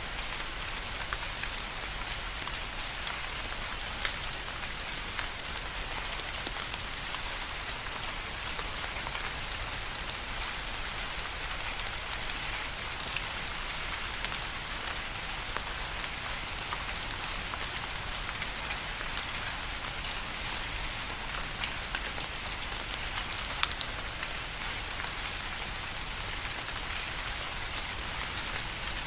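Steady rain falling, a continuous hiss of many small drops pattering on a surface, with frequent fine individual drop ticks.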